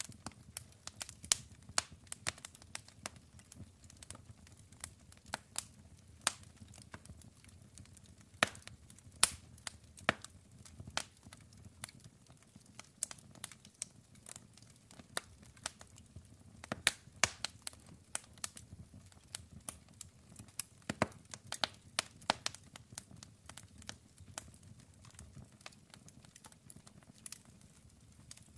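Wood fire crackling, with irregular sharp pops and snaps, some louder, over a low steady rumble of the flames.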